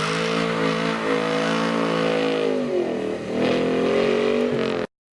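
A sports car's engine is revved hard and held high for a few seconds. It drops briefly, then revs up again before the sound cuts off abruptly near the end.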